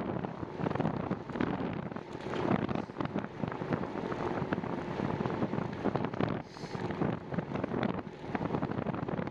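Wind buffeting the camera microphone during a bicycle ride: a steady, gusty rumble.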